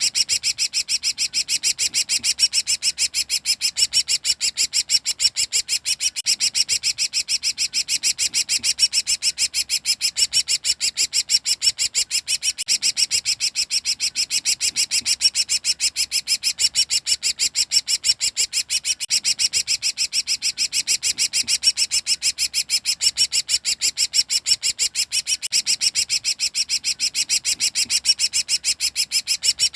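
Cucak ranting songbird calling nonstop in the rapid chattering style keepers call 'ngekek': a fast, even run of high, sharp notes, about five a second, without pause.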